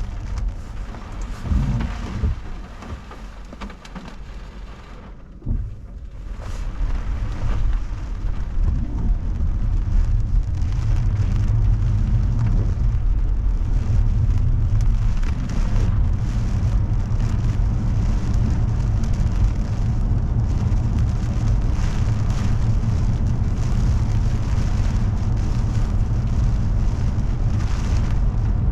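Heavy typhoon rain and wind beating on a moving car, heard from inside the cabin, with a deep low rumble underneath. It eases a few seconds in, then swells again about six seconds in and stays heavy and steady.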